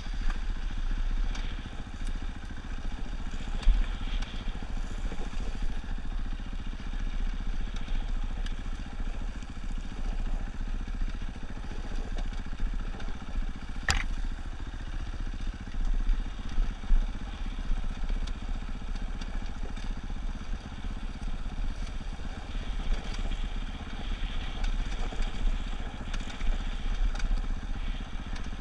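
Dirt bike engine running steadily while the bike is ridden along a trail, with a single sharp click about halfway through.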